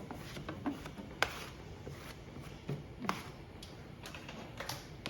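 A wet plastic or wooden cutting board being wiped dry with a cloth: soft rubbing with a few light knocks as the board is handled on the counter, the sharpest about a second in.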